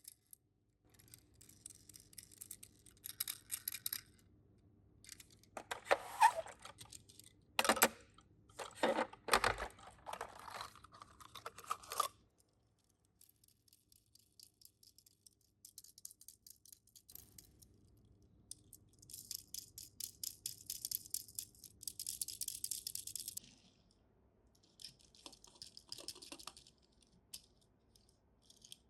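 Die-cast Tomica minicars and their plastic and cardboard packaging being handled: bursts of light rattling and clicking, with louder knocks between about 6 and 12 seconds in.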